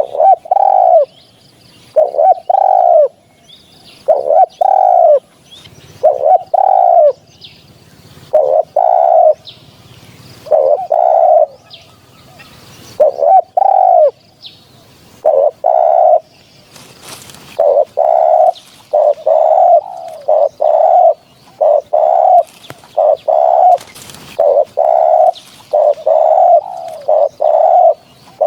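Spotted dove cooing: loud repeated coo notes, mostly in twos and threes, coming faster in the second half. Faint chirps of other small birds sound behind it.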